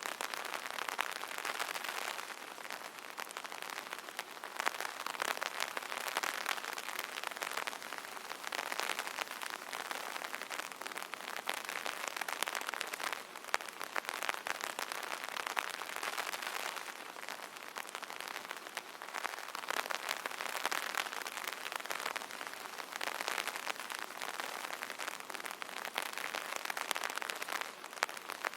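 Rain pattering on an umbrella: a dense, steady crackle of drops, swelling and easing every few seconds.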